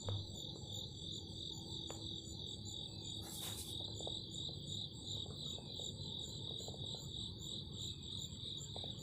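A steady, high-pitched chorus of chirping that pulses evenly, two or three times a second, without a break. A brief hiss comes about three seconds in.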